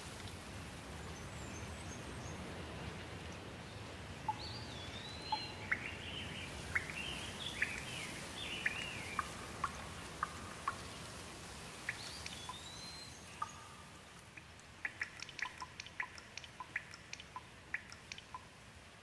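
Steady rain hiss with birds calling over it in short whistled and chirping notes. Near the end the hiss eases and water drips plink in quick, uneven succession.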